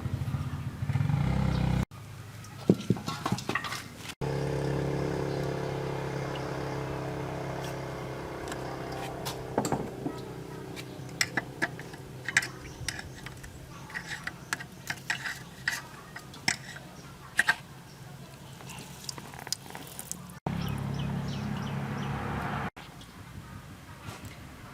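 Metal tools clinking and tapping on engine parts, in many sharp clicks, alternating across hard cuts with stretches of a steady mechanical hum from a running motor.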